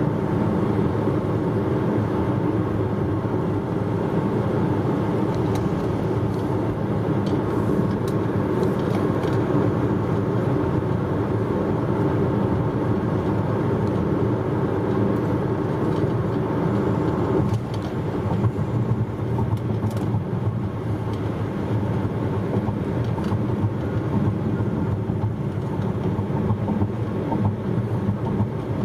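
Steady road and engine noise inside a moving car's cabin, with a slight drop in the higher part of the rumble a little over halfway through.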